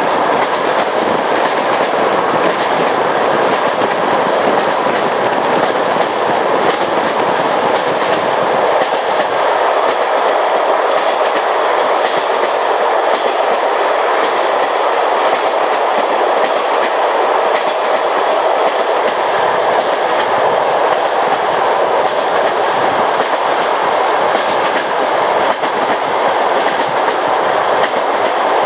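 Train wheels running over jointed rails: a steady rushing rumble with the clickety-clack of the wheels striking the rail joints.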